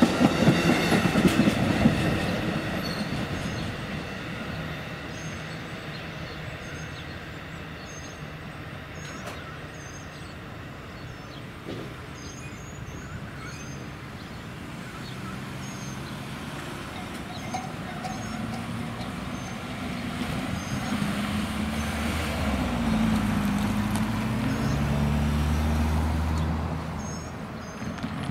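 Amtrak passenger train's last cars clattering over the rail joints at a grade crossing, then the rumble of the train rolling away and fading. Near the end a lower engine-like rumble swells for a few seconds, then drops off.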